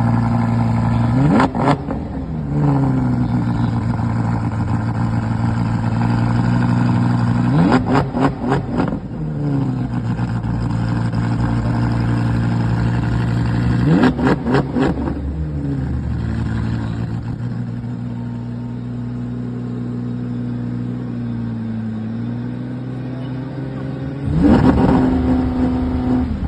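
Audi R8 engine idling steadily and being revved in sharp blips: once about a second in, a quick run of several blips around eight seconds, again around fourteen seconds, and once more near the end. After each rev the pitch falls back to the idle.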